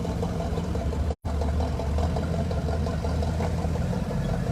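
Car engine running steadily at low speed, a low, even hum as a car rolls into a parking lot. A little over a second in, the audio cuts out completely for a split second.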